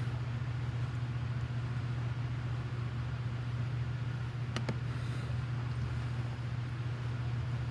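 A motor running steadily with a low, even drone; one sharp click sounds about four and a half seconds in.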